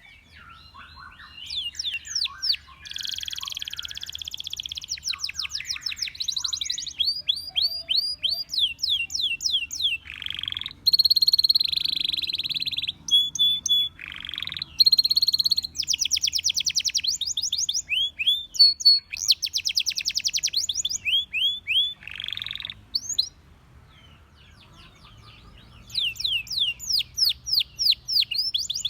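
Domestic canary singing: fast trills of rapidly repeated rising notes, mixed with steady buzzy rolls and sweeping whistles. Near the end the song pauses for about three seconds, then the fast trills start again.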